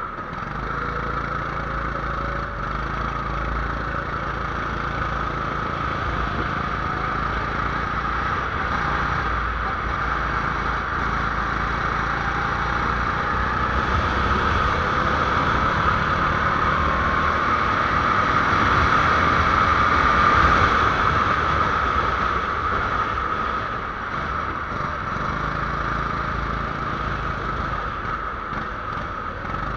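270cc single-cylinder kart engine running under way, its note rising and falling with speed and loudest about 20 seconds in.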